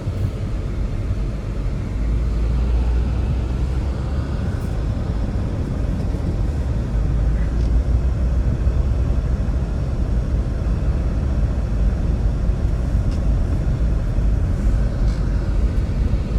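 Strong blizzard wind blowing hard and buffeting the microphone, a heavy, fluctuating low rumble.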